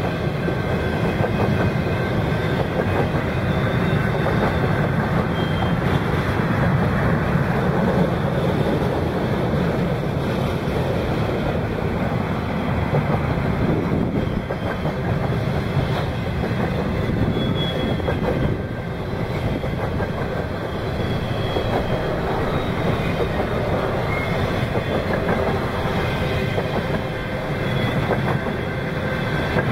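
Freight train of mostly empty intermodal flatcars rolling past steadily, its steel wheels running over the rails in a continuous rumble.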